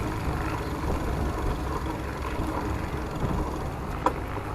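Steady low rumble of wind on the microphone and bicycle tyres rolling during a ride, with one sharp click about four seconds in.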